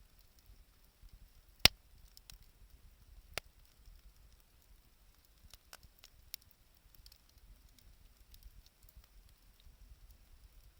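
Wood bonfire crackling: sparse sharp pops and ticks, the loudest about a second and a half in and another a couple of seconds later.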